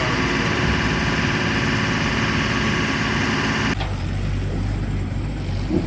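A heavy vehicle engine running hard with a dense, steady note, which drops abruptly to a lower, quieter hum about four seconds in.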